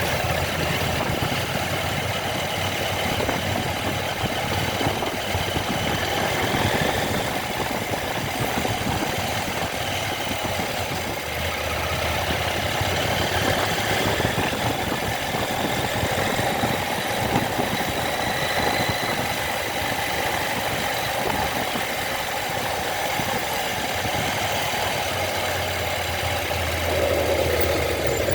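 A vehicle's engine running steadily with continuous road noise and a low hum.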